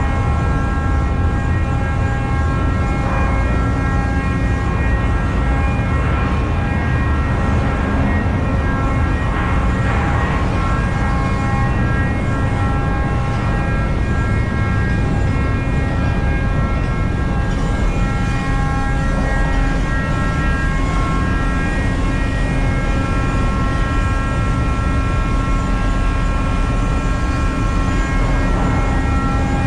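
Tanker ship's engine room machinery running: a loud, steady low drone with several constant high-pitched whines layered over it.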